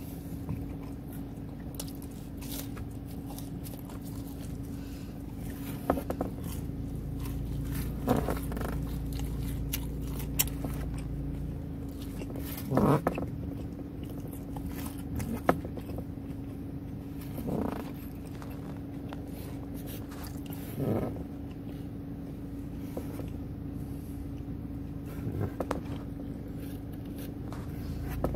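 Close-up eating sounds of a person chewing and biting pepperoni pizza, with a short bite or scrape every few seconds, over a steady low hum.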